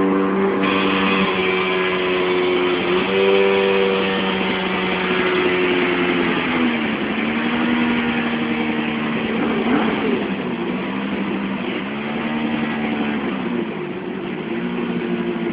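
Motorcycle engine running hard on a dynamometer, its note held high and dipping in pitch a few times before picking back up.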